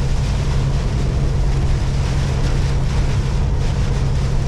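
Steady low drone of a tractor-trailer's engine and road noise inside the cab at speed, under an even hiss of rain and wind.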